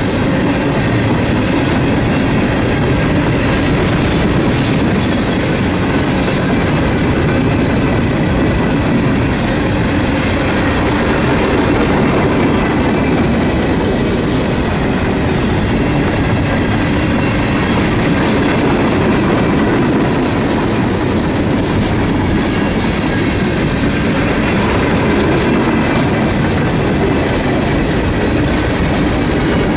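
Freight cars of a long mixed train, covered gondolas then boxcars, rolling steadily past: the constant rumble and rattle of steel wheels on the rails.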